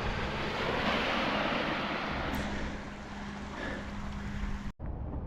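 A car moving on a soaked road: a steady hiss of tyre spray over a low, even engine hum, cut off abruptly near the end.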